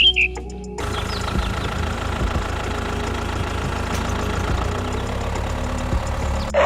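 A tractor engine running at a steady idle, coming in about a second in.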